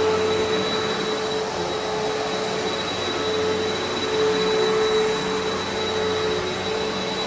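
Eureka Altima upright vacuum cleaner running steadily over carpet: a continuous motor whine over a rush of air, with no breaks.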